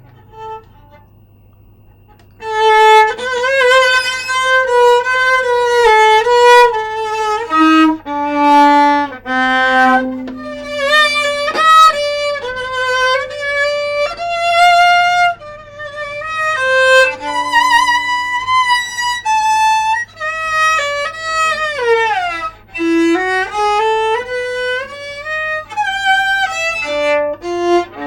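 Solo viola playing a slow bowed melody with vibrato, beginning after a short pause about two seconds in, with a sliding glide down and back up about two-thirds of the way through.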